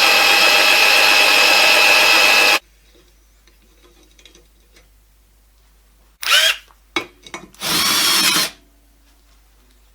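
Electric power tool running at full speed with a steady high whine, cut off abruptly about two and a half seconds in. After a pause come a short loud burst of noise with a wavering pitch, a few sharp clicks, and a second, longer loud burst near the end.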